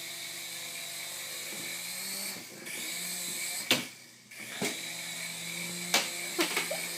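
A mini RC helicopter's small electric motors and rotors whining in flight, the pitch shifting with the throttle, with a brief dropout about four seconds in. A few sharp knocks break in around the middle and near the end.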